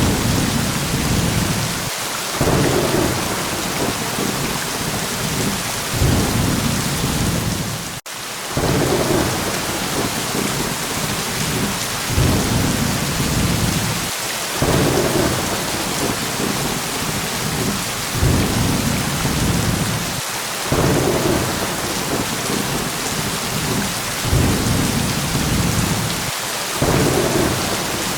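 Steady heavy rain with rolling thunder, low rumbles swelling every few seconds. There is a brief dropout in the sound about eight seconds in.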